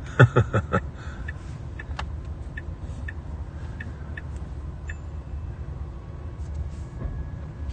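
Car cabin with steady low road rumble and the turn-signal indicator ticking about two and a half times a second while the car turns and merges; the ticking stops about five seconds in. Near the start comes a brief vocal sound of a few quick pulses.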